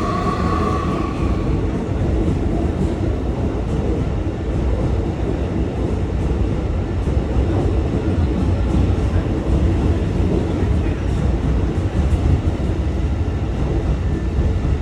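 Hankyu 2300 series electric train pulling out: a rising motor whine fades out about a second and a half in, leaving a steady rumble of wheels and running gear with faint clicks.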